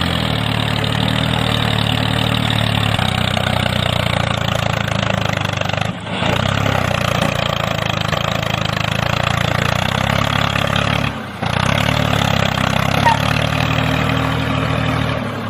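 An engine running steadily, with two brief dips about six and eleven seconds in.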